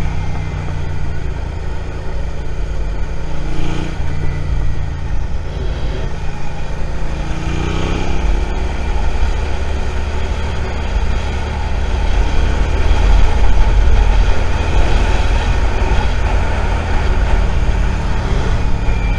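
Suzuki SV650 motorcycle's V-twin engine running while riding, heard from the rider's position. Its pitch climbs as it accelerates about seven to eight seconds in, and it runs louder a little past the middle.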